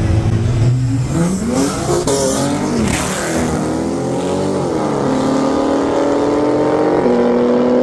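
Car engine accelerating hard at full throttle. Its pitch climbs, then drops back at each gear change, about three times.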